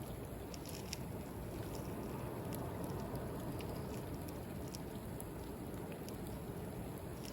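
Wood bonfire crackling with irregular sharp pops and snaps, over the steady low wash of sea waves on the shore.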